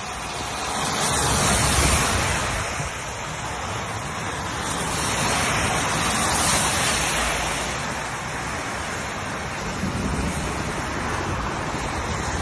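Heavy rain pouring down in a steady hiss, swelling louder twice, with wind gusts rumbling on the microphone.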